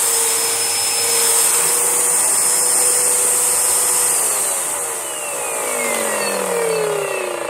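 Panasonic MC-E4103 twin-cylinder bagless vacuum cleaner running steadily, then switched off about four seconds in, its motor winding down in a falling whine.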